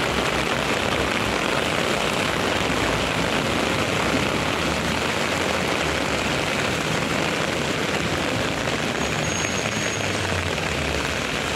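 Heavy rain pouring onto a city street, a steady hiss, mixed with traffic driving through the wet road. A low engine rumble grows stronger near the end as a truck passes.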